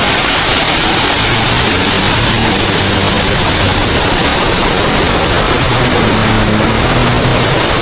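A small waterfall's water rushing and splashing in a loud, steady roar, with a faint low hum underneath.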